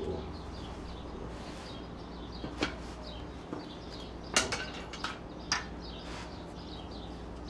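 Small birds chirping faintly over a steady low background hum, with a few short sharp clicks, the loudest about four and a half seconds in.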